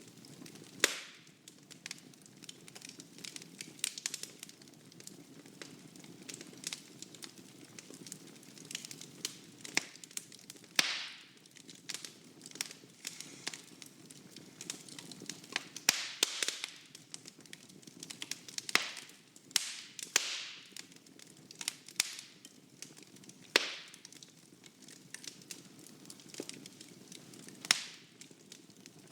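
Wood fire burning in a fireplace: a low steady hiss under irregular crackles and sharp pops, a few of them loud.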